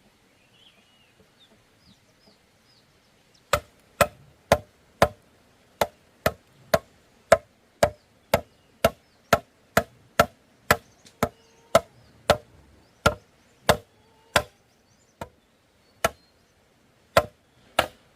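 Sharp, regular strikes on bamboo, about two a second, beginning a few seconds in and slowing to a few spaced blows near the end. Faint bird chirps before the strikes start.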